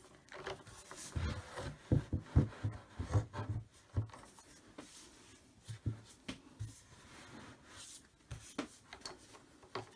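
Irregular knocks, clicks and rubbing of flat-pack cupboard panels being handled and screwed together with an Allen key, with a cluster of low thuds in the first few seconds and more near the end.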